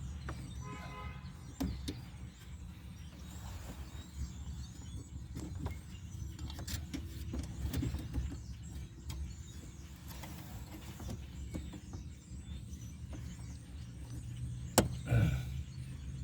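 Scattered small plastic clicks of a wiring connector being worked onto a truck's HVAC blend door actuator behind the dash, ending in one sharp click near the end as the connector latches. A steady low hum runs underneath.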